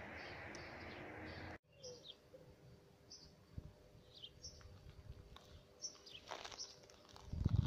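Small birds chirping in short high calls over a quiet rural background. A steady rushing noise fills the first second and a half and cuts off suddenly, and a louder low rumble comes near the end.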